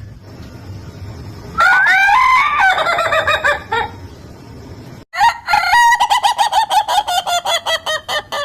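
Ayam ketawa (Indonesian laughing rooster) crowing twice: a first crow that rises and then breaks into pulses, then a longer crow of rapid, staccato, laughter-like notes at about five a second.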